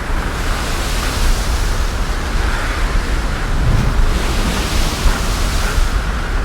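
Wind buffeting the microphone: a steady rushing noise with a heavy low rumble that grows stronger for a few seconds in the middle.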